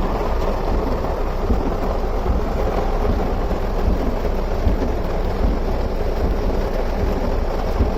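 Heavy rain falling steadily in an even, unbroken hiss, over a constant low rumble.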